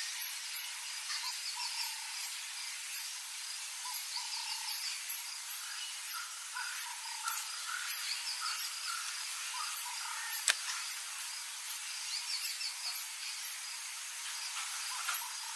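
Bush wildlife sounds: very short, high-pitched chirps repeating a couple of times a second over scattered bird calls and trills. A single sharp click comes about ten seconds in.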